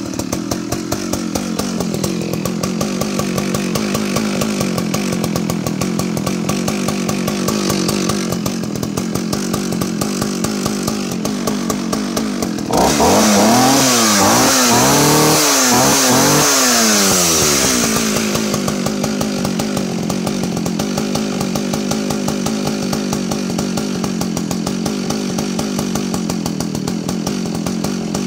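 Vintage 1960s Partner R16 55cc two-stroke chainsaw idling steadily just after a restart. About halfway through it is revved up and down several times, louder, then drops back to a steady idle.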